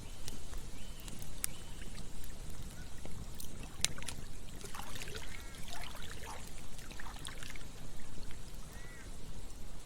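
Campfire burning with irregular sharp crackles and pops over a steady low rush. There are a few short whistling squeaks in the middle and near the end.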